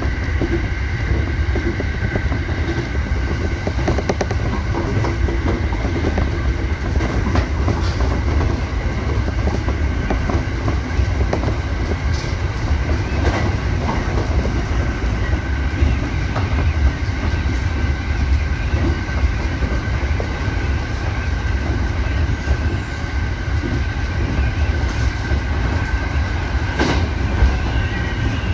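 Electric commuter train running steadily, heard from inside the front car: a constant low rumble of wheels on rail with a steady high hum over it, and now and then sharp clicks as the wheels pass rail joints.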